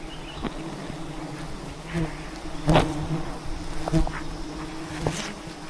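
Wild bees buzzing around their hive in a steady, many-bee hum, with a few sharp knocks, the loudest a little under three seconds in.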